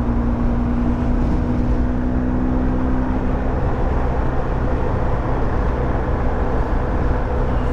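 Motorcycle riding at road speed: a steady engine hum under heavy wind and road noise, with one engine tone dropping away about halfway through.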